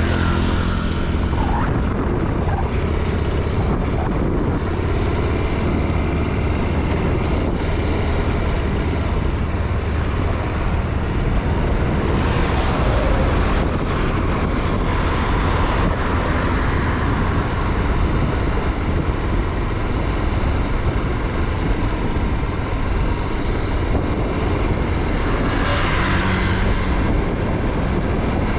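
Motorcycle riding along the road: a steady rumble of engine and wind noise on the microphone, with two louder passing swells, about halfway through and again near the end.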